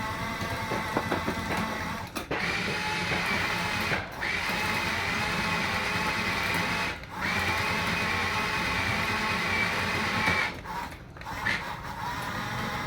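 Small electric drive motors and plastic gearboxes of Huina radio-controlled construction models running with a steady, high-pitched hum. The hum cuts out briefly four or five times as the controls are let go and pushed again.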